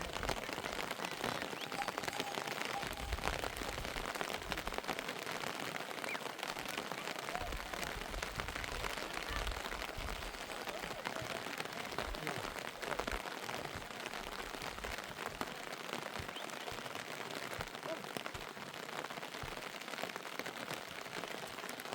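Heavy rain falling steadily, a dense hiss of countless drops striking close by, with now and then a low rumble underneath.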